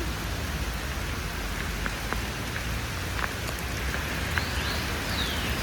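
Heavy rain pouring down, a steady hiss with scattered drops pattering close by. From about four and a half seconds in, an alarm joins it: a high tone that swoops up and down over and over.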